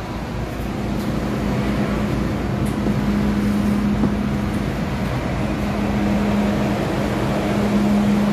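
Steady hum of a stopped MTR M-Train and its platform, the train's equipment running with its doors open. A low steady drone fades and comes back a few times.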